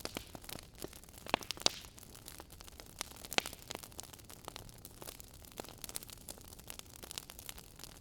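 Wood fire crackling: a low steady hiss with irregular sharp pops and snaps, a few louder ones near the start and middle.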